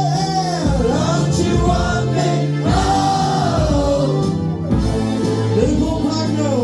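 Live band music with a singer holding long, gliding wordless notes over sustained chords and a pulsing bass beat.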